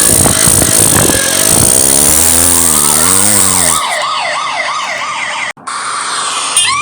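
Cartoon vehicle sound effects: a loud, noisy engine-like sound with a wavering pitch, joined by a police siren warbling rapidly up and down, about two cycles a second. It cuts off abruptly, and near the end a new siren sweep starts rising.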